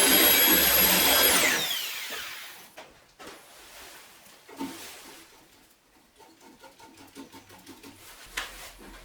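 9-inch angle grinder running at full speed with a high whine, switched off about a second in and spinning down, its whine falling in pitch until it fades. A few light knocks follow.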